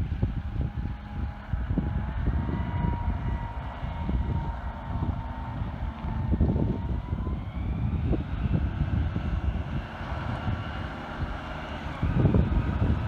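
Garbage truck's air brakes squealing in a thin, wavering high tone over the rumble of the truck's engine and wind noise.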